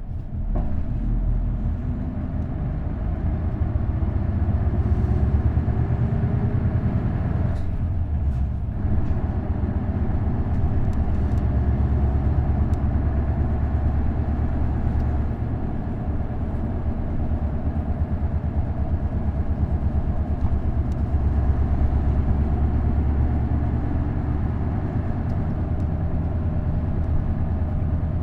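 Isuzu Erga route bus with a V8 diesel and a five-speed manual gearbox, heard as it drives. The engine drone rises in pitch as the bus accelerates, changes briefly about eight seconds in, then settles into a steady run.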